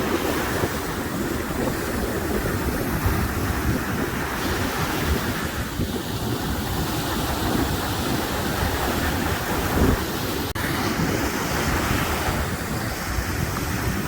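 Ocean surf washing in and out, with wind buffeting the microphone in a steady low rumble.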